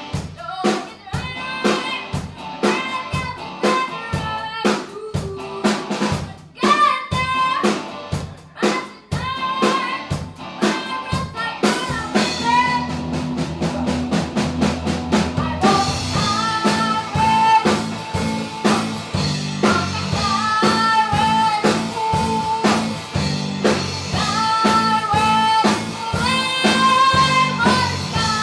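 A song performed live: a singer's voice carries the melody over a band with a drum kit keeping a steady beat. The backing fills out with sustained low notes about halfway through.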